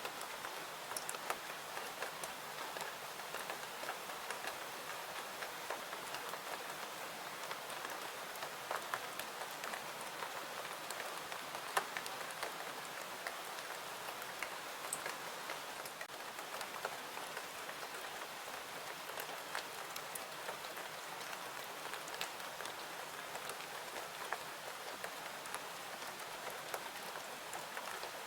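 Steady rain falling, with scattered sharp crackles from a wood fire mixed in.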